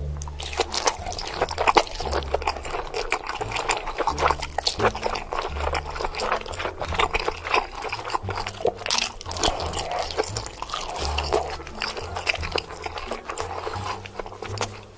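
Close-miked eating of king crab: dense crackling, cracking and wet smacking as shell is broken and meat is chewed, over background music with a repeating bass line.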